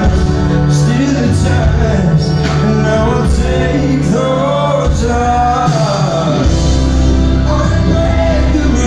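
Live band playing a slow rock ballad with a male lead singer's voice gliding between held notes.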